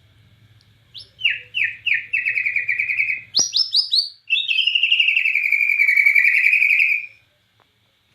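A Bornean white-rumped shama (murai batu Borneo) singing a fast, loud burst. Quick runs of falling slurred notes, about four a second, lead into a long rapid trill that stops abruptly near the end. A single sharp click comes midway.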